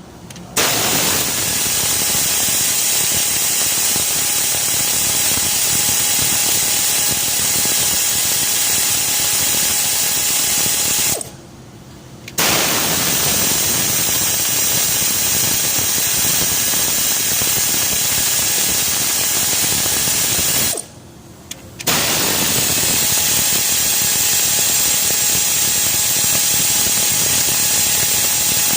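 Power ratchet running out bolts on a Ford Crown Victoria V8's cylinder head and valvetrain. It gives a steady, loud mechanical whir that runs for about ten seconds at a time, stopping briefly twice.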